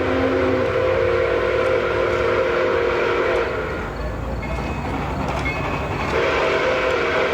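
Steam locomotive whistle blowing a long chord of several tones, stopping about halfway through and sounding again near the end, over the steady rumble of the running train.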